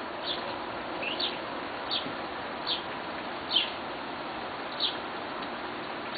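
A bird chirping again and again: short, high chirps that slide downward, roughly one every 0.8 seconds, over a steady background hiss.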